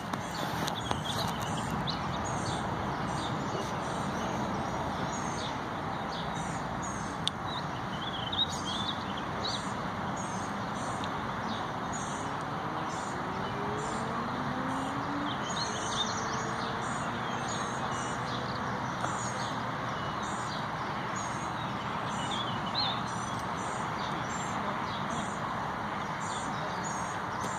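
Outdoor ambience: small birds chirping again and again over a steady background hiss, with a faint rising tone briefly around the middle.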